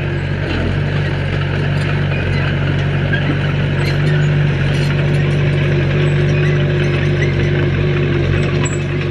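Heavy earthmoving machine's diesel engine running steadily under a mix of rumble and mechanical noise, with no change in pitch.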